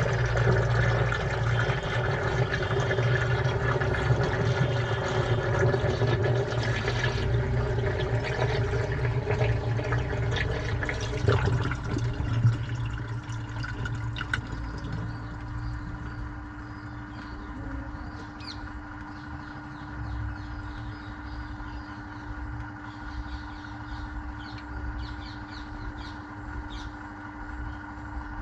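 Washing machine running a cycle. Water rushes and sloshes loudly for about the first twelve seconds, then it turns quieter, leaving a steady hum with a few faint clicks.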